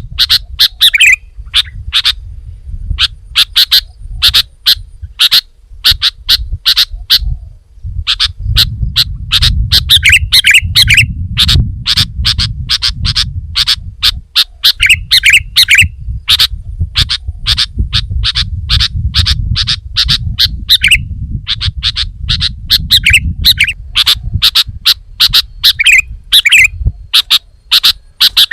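Sooty-headed bulbul (kutilang) calling in a fast run of sharp chirps, about four or five a second, with short breaks. Every few seconds a quick warbled phrase cuts in. A low rumble runs underneath.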